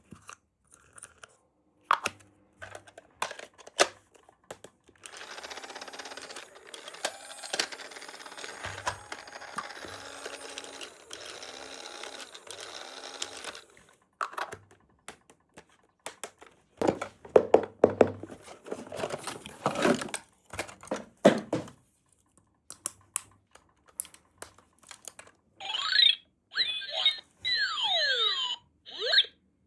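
Small plastic toy pieces handled with clicks and taps, a long stretch of steady rustling, and a burst of clattering. Near the end, a battery-powered toy plays short electronic beeps and falling sound effects.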